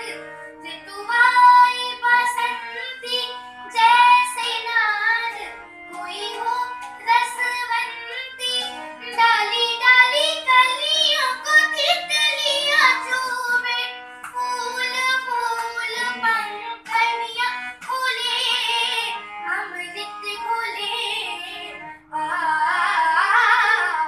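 A child singing a long melodic vocal line with many bends and ornaments, over steady held accompaniment notes.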